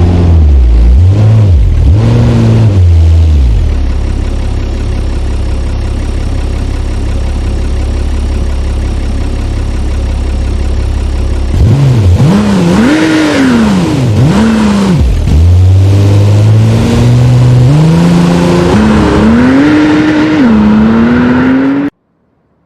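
Car engines revving hard, with several quick blips of the throttle, then a car accelerating away with its pitch climbing in steps through the gears. In between there is a stretch of steady low engine drone, and the sound cuts off abruptly near the end.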